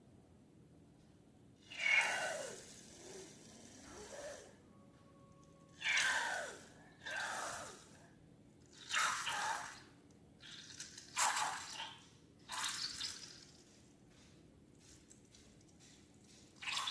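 Thick liquid slime ingredients squeezed out of balloons: a series of about eight wet, gurgling squelches, each about a second long, several with a falling pitch.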